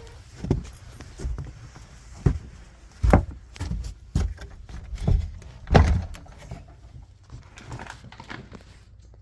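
A series of irregular thumps and knocks, with a door being opened and shut among them, the loudest about three and six seconds in.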